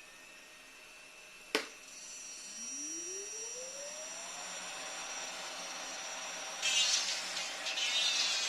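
A switch clicks, then the motor of a small jewellery-workshop gold-dust vacuum spins up with a steadily rising whine and settles into a steady run. Near the end a louder, harsher hiss joins it.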